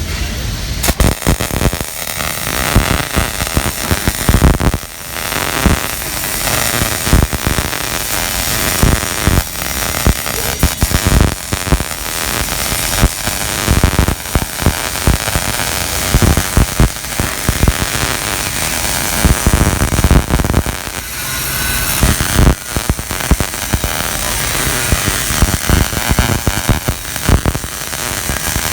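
Arc welding a vertical-down bead: a steady, loud crackle full of irregular sharp pops, starting about a second in.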